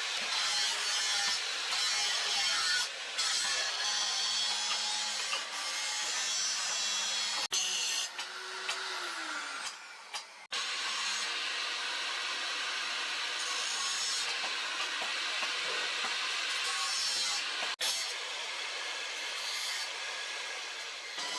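Steady scraping noise of a tool cutting or abrading wood, as in shaping a wooden knife handle, broken by a few sudden short gaps.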